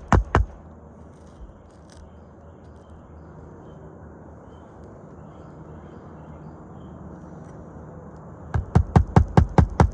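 Hammer strikes, one just after the start and then a quick run of about four or five a second near the end, driving nails into roof shingles during a shingle repair. Between them a low, steady background hum.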